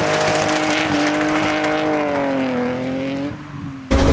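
BMW E36 328i's M52 inline-six held at high revs while drifting, with tires squealing. The engine note sags slightly past the middle and falls away about three seconds in, then a louder low rumble cuts in abruptly near the end.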